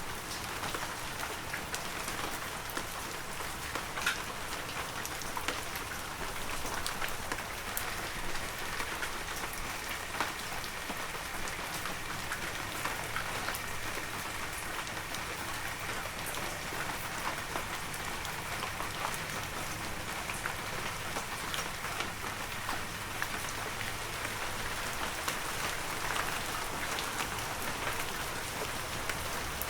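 Heavy rain falling steadily, a dense hiss of patter with many individual drops ticking throughout.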